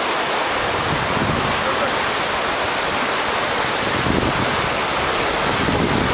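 Steady rush of fast-flowing river water, a loud, even noise throughout.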